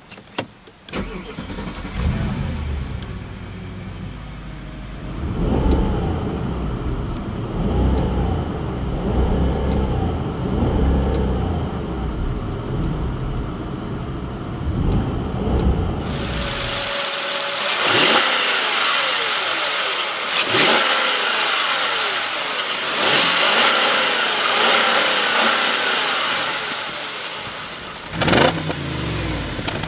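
Audi A6 Allroad's stock 4.2-litre FSI V8 starting and idling, then revved up and down in park, heard from inside the cabin. About halfway through, the same V8 is heard at the stock exhaust tailpipe, with sharp revs a few seconds apart.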